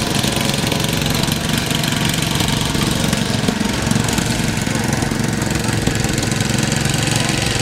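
An engine of a heavy vehicle running steadily at an even level.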